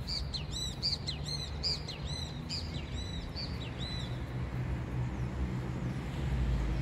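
A songbird calling a rapid series of short, high chirps, about three a second, that fade out about four seconds in, over a steady low background rumble.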